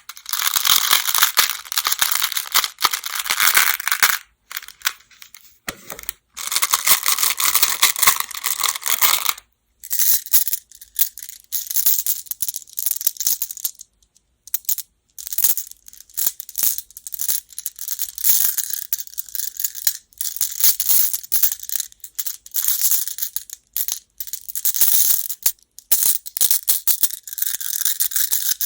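Baduk (Go) stones clattering together close to the microphone: bursts of dense rattling clicks broken by short pauses.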